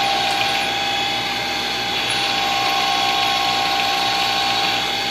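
Milling machine spindle running steadily at high RPM in low gear: a constant mechanical whine with several held tones, unchanging throughout.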